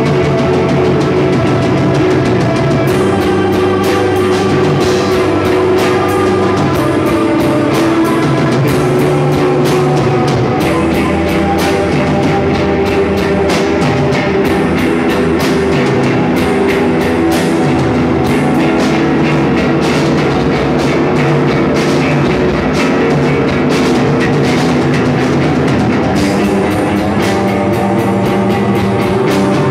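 Rock band playing loudly: a drum kit with steady hits under guitar chords, without a break.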